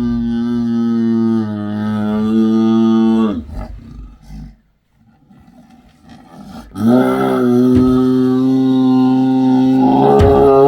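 A big cat giving two long, steady, low calls. The first fades out about three seconds in, and the second begins about seven seconds in and holds on.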